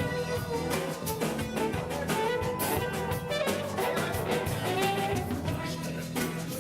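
Live band playing an instrumental passage: drum kit and guitar under a held, sliding lead melody, with a steady bass line.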